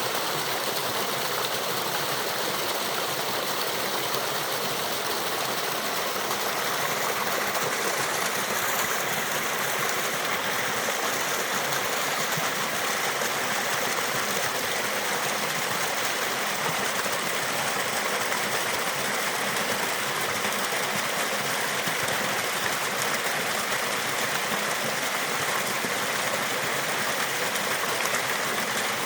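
Water of a small stream and waterfall rushing and splashing steadily.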